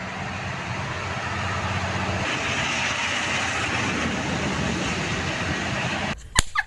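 Train running: a steady rumble with a low hum that swells over the first couple of seconds, then cuts off abruptly near the end, followed by a few sharp clicks.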